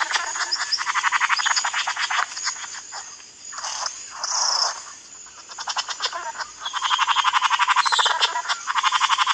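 Rapid, rattling animal calls: fast trains of evenly spaced clicking pulses lasting a couple of seconds each, the first at the start and another about seven seconds in, with rougher rasping bursts in between.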